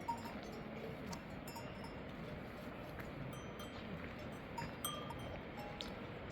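Sheep bells on a grazing flock clinking and ringing irregularly in short, scattered tinkles over a steady background hiss.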